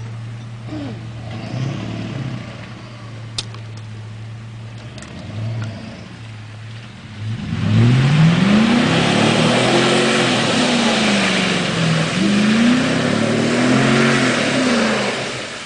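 Pickup truck engine idling steadily, with a single sharp click a few seconds in. About seven and a half seconds in it revs hard, its pitch rising and falling several times under a loud rushing noise, before easing off near the end.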